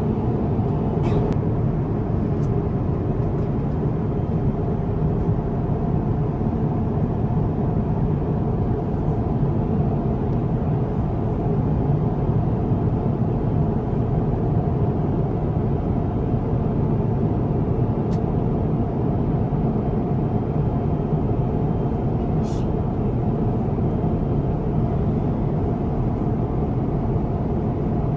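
Steady cabin noise inside an Airbus A350-1000 airliner: an even, low rush of air and engine noise that holds a constant level, with a few faint clicks.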